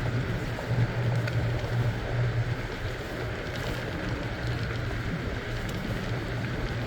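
Steady wind rumble on the microphone with rolling noise while riding a bicycle, with a low hum throughout and a few faint ticks.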